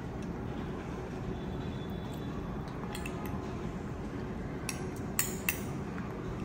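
Metal spoon scraping and clinking against a small ceramic bowl as chopped leaves are scooped out: a few light clinks about halfway through and two sharper ones about a second before the end, over a steady low room hum.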